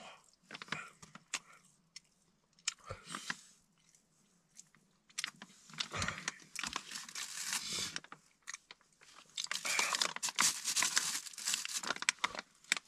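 A person chewing and biting into hard, frozen cured pork (la rou) close to the microphone, in crunchy bouts with short pauses between them.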